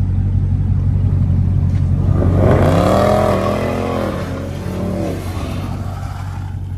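Dodge V8 engine revving up and back down over about three seconds as the car is pushed into a slide, over a steady low engine rumble.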